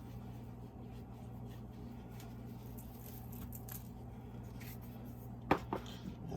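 Faint light taps and rustling of seasoning being shaken over raw chicken, over a steady low hum, with two sharp clicks close together near the end.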